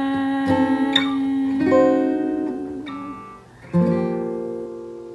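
Acoustic guitar playing the closing notes of a jazz song: a few plucked chords, then a final chord struck near the end that rings out and fades away.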